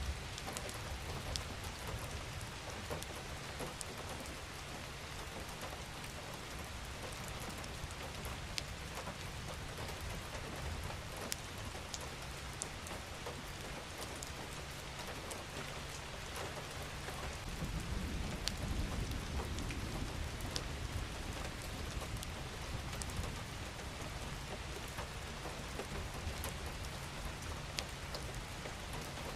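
Steady rain falling: an even hiss with many scattered sharp drop ticks. About two-thirds of the way through, a low rumble swells for a couple of seconds.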